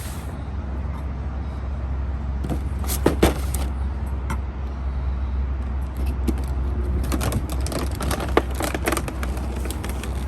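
Toy packaging being handled and opened: scattered clicks and rattles, a sharp pair about three seconds in and a quick run of them later on, over a steady low rumble.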